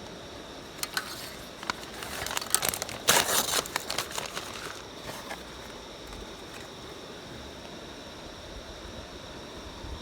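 Crinkling and crackling of paper and kindling being handled while a campfire is lit: a few sharp clicks, then a dense crackling burst about two to five seconds in that dies away.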